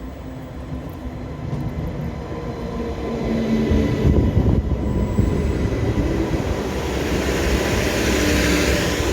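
A train running past close by, getting louder about three seconds in, with faint steady whining tones and a high rushing hiss that builds near the end.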